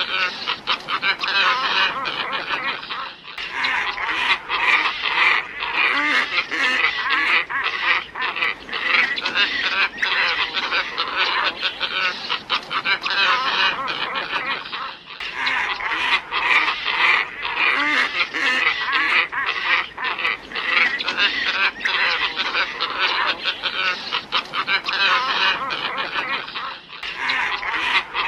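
A flock of glossy ibis calling, many overlapping calls at once, from a bird-lure recording. The calling breaks off briefly and starts again about every twelve seconds.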